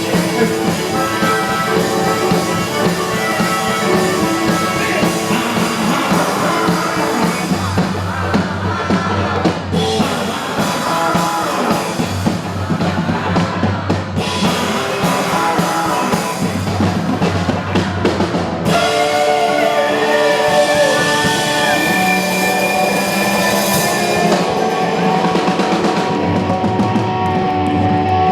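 Rock band playing live, with drum kit and guitar in an instrumental passage without vocals. The music changes character about two-thirds of the way through.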